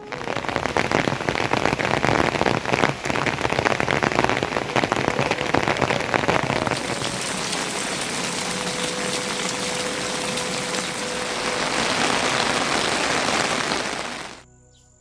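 Rain pouring down, a dense patter of many drops hitting surfaces, cutting off suddenly near the end.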